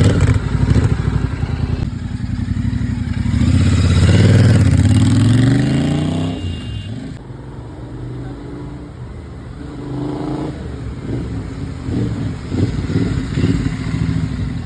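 Royal Enfield Continental GT 650's 648 cc parallel-twin engine revving loudly through its exhaust. The pitch climbs steadily for a couple of seconds and then drops back to a quieter idle. Near the end the throttle is blipped in several short bursts.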